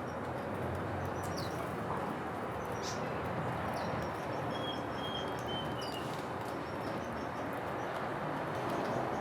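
Small songbirds giving scattered short, high chirps, with a quick run of four notes about halfway through, over a steady outdoor background hiss.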